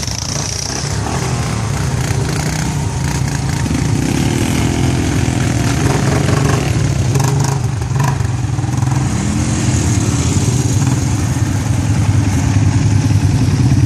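A vehicle's engine running steadily during a ride, with a constant low drone.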